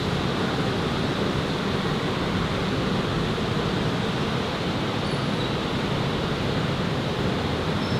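Steady, even outdoor roar with no distinct events, heaviest in the low range, with a few faint short high chirps about five seconds in.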